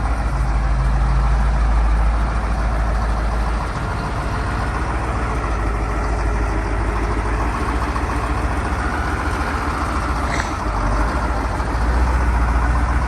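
1986 Ford F700 dump truck's 8.2-litre Detroit Diesel V8 running as the truck drives along, a steady heavy drone with small dips in level about four and eleven seconds in.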